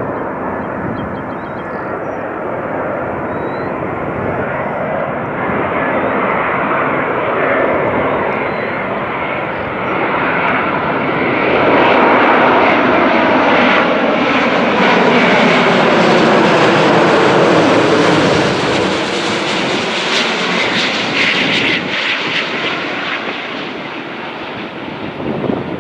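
Jet airliner passing low overhead: its engine noise swells to its loudest midway, with a sweeping whoosh as it goes by, then fades.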